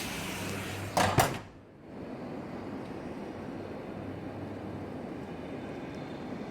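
Steady hiss of heavy rain. About a second in, two sharp knocks come close together, followed by a brief drop in the sound before the rain hiss resumes, duller than before.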